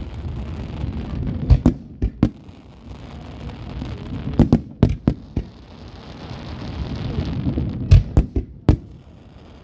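Fireworks going off: sharp bangs in three quick clusters, with a low rumble between them.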